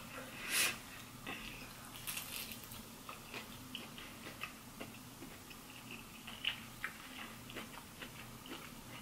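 A person chewing crunchy fried chicken tender: scattered crisp crunches and mouth clicks, with one louder burst about half a second in.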